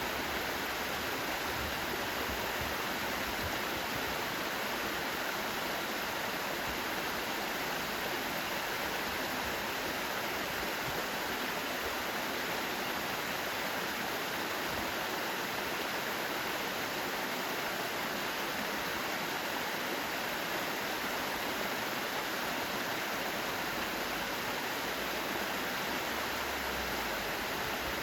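Mountain stream rushing over rocks in a steady, unbroken hiss.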